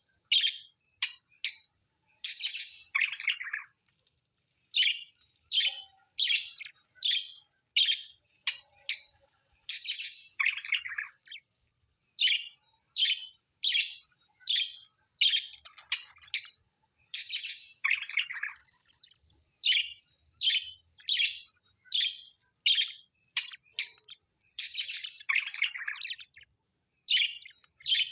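Birds chirping: short, high calls repeated one to two a second, with a few longer calls that reach lower in pitch mixed in.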